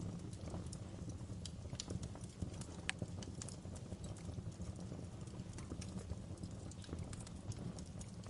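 Campfire crackling: irregular sharp snaps and pops of burning wood over a steady low rumble of the fire.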